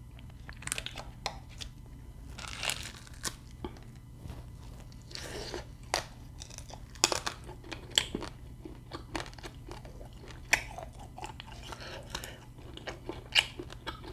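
A person chewing and biting into cooked quail at close range, with irregular sharp crunches between the bites.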